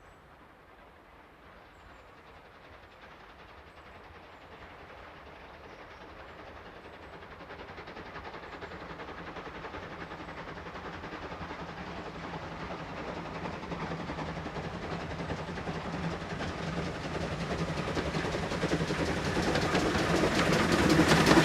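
Double-headed steam train approaching, its sound growing steadily louder through the whole stretch and loudest near the end.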